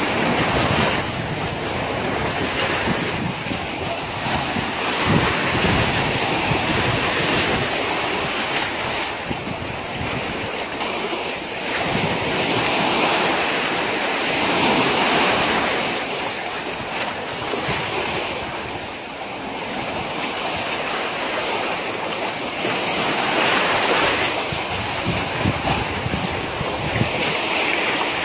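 Sea waves washing against a rocky shore, mixed with wind buffeting the microphone; the rushing noise swells and eases every few seconds.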